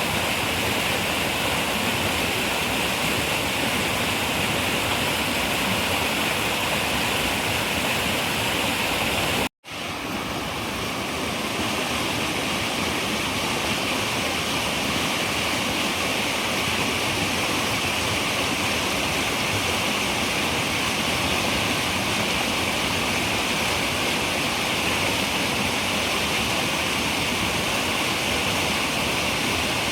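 Running river water rushing steadily. About ten seconds in it cuts out to silence for an instant, then comes back, swelling up over about a second, as at a splice in the recording.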